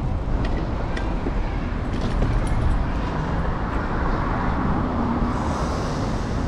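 City street traffic noise heard while riding an electric scooter, over a steady low rumble of wind and road on the handlebar-mounted camera.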